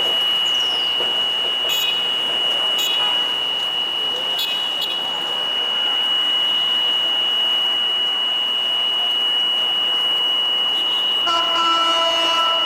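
A level-crossing warning buzzer holds one steady high tone over a constant rushing rumble of passing rail and road traffic. Near the end a road vehicle's horn honks.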